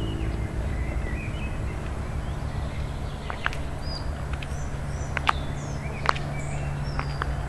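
Small birds chirping in short calls over a steady low rumble, with a few sharp clicks about halfway through and near the end.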